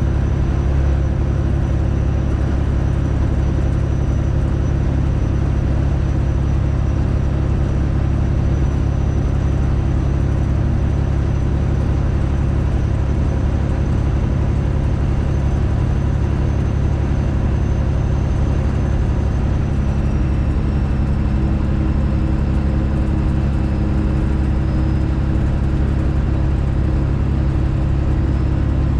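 Straight-piped Detroit Diesel engine of a Freightliner Classic XL truck running under way: a loud, steady low drone.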